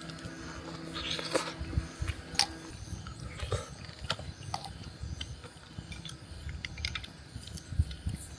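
A person eating: chewing, with scattered small clicks and taps.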